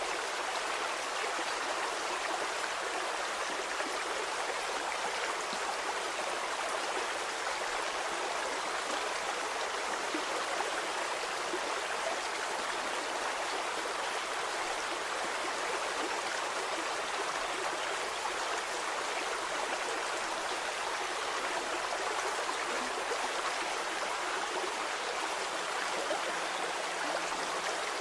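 Small stream flowing steadily, water babbling and trickling over stones.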